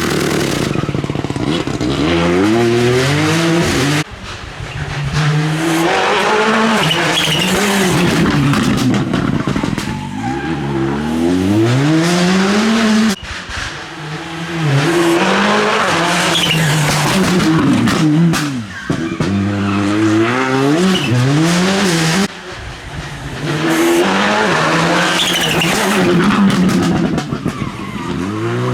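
Rally car engines revving hard, the pitch climbing and falling back again and again as the cars accelerate and change gear. The sound breaks off abruptly three times, with one car's run giving way to another's.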